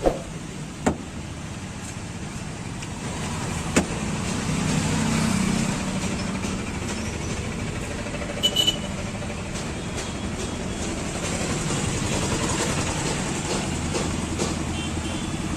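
Street traffic noise: a steady hum of passing vehicles, with a few sharp knocks and a short double beep about eight and a half seconds in.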